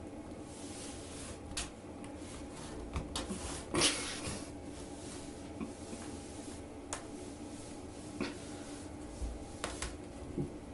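Small knocks, clicks and rustling of things being handled, over a steady low hum, with one louder knock about four seconds in.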